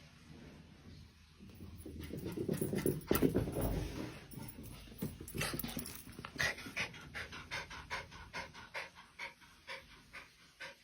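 A dog panting in quick, regular breaths, about three a second in the second half, with a louder muffled noise about two to four seconds in.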